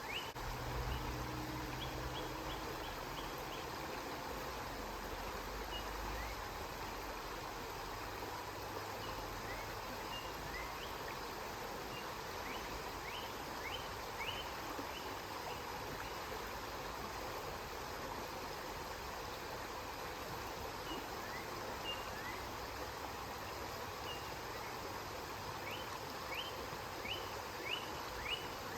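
River water flowing steadily. Runs of short, high, rising chirps sound over it at the start, in the middle and near the end, and a low rumble underlies the first few seconds.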